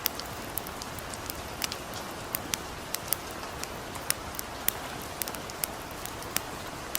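Light rain falling steadily with a campfire crackling over it: sharp, irregular pops about twice a second above the soft, even hiss of the rain.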